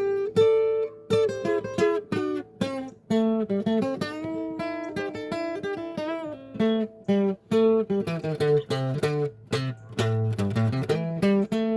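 Acoustic guitar jam in A minor, strummed in a steady rhythm with picked notes. A chord rings out for a couple of seconds midway, and low bass notes move under the strumming in the second half.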